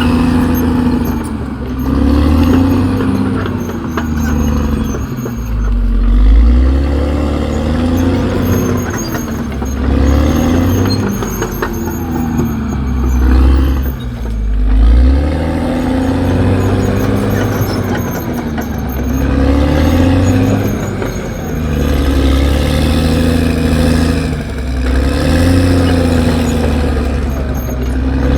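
CAT D6R XL bulldozer's diesel engine working, its pitch and loudness swelling and dropping again every two to three seconds as the load comes on and off, with faint high whining from the machine in places.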